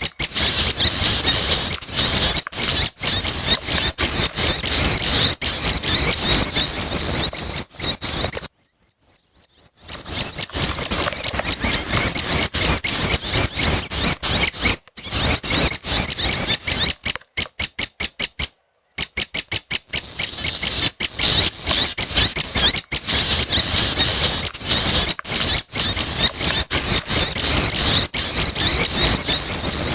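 Prenjak chicks giving rapid, squeaky, high-pitched begging calls, chirping almost without a break. There is a pause of about a second and a half partway in, and later a short run of separate, evenly spaced notes before the dense chirping resumes.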